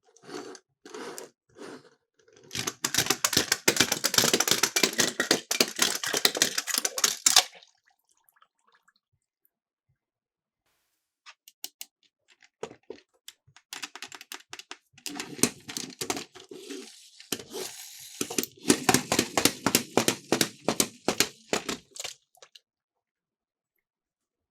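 Miniature toy cars rattling and clicking as they roll down a slope: a dense run of rapid clicks for about five seconds, a pause with a few scattered clicks, then a second, longer rattling run.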